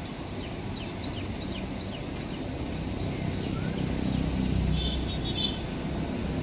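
Low, steady rumble of a train running, growing a little louder past the middle. Over it a bird calls in a quick series of short falling chirps, then gives a brief louder call about five seconds in.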